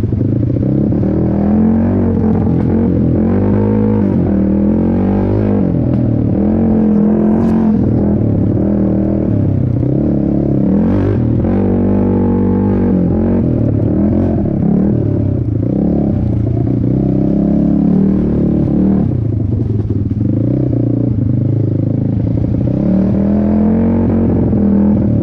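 Racing ATV (quad) engine revving hard, its pitch climbing and dropping again and again as it accelerates, shifts and slows around a dirt track.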